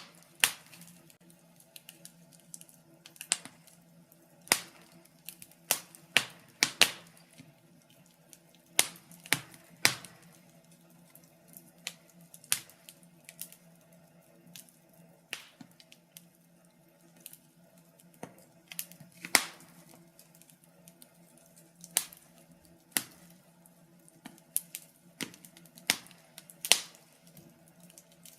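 Wood fire crackling in a fireplace: irregular sharp pops and snaps, roughly one a second, over a faint steady hum.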